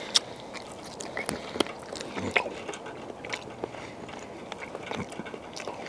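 A person biting and chewing cooked squirrel meat off the leg bone, heard as irregular small wet clicks and smacks.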